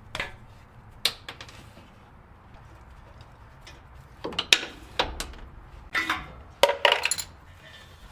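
Metal tools and parts being handled, knocking and clinking: a few separate knocks, then a quick run of clacks and short scrapes about halfway through.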